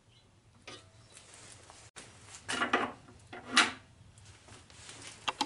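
A few knocks and clatters of parts being handled on a machine, the loudest about three and a half seconds in.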